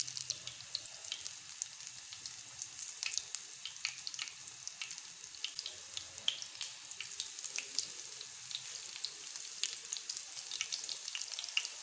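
Besan-battered potato balls frying in hot ghee on a tawa: a steady sizzling hiss with many small crackles and pops.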